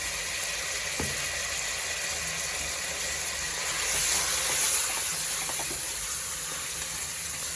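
Chicken pieces frying in hot oil in a pan on high flame: a steady sizzling hiss that swells briefly about four seconds in.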